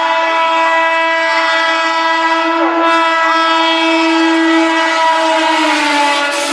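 Indian Railways locomotive horn sounding one long, loud, continuous blast, its pitch stepping slightly down near the end.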